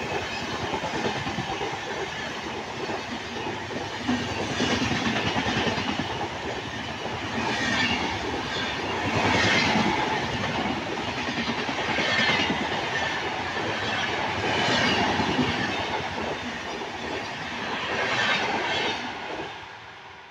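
Passenger train coaches passing at speed close by: a continuous rumble with the wheels clattering over the rail joints, rising in surges every two to three seconds as each coach's wheel sets go by. It fades away as the last coach passes near the end.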